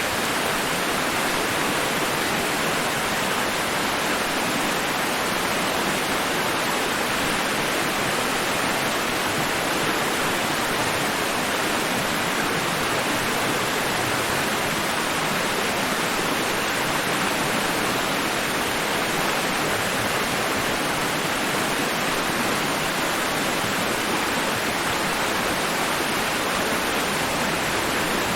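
Steady rushing noise, like a waterfall or constant surf, spread evenly across high and low pitches. It holds an unchanging level with no rise and fall of separate waves.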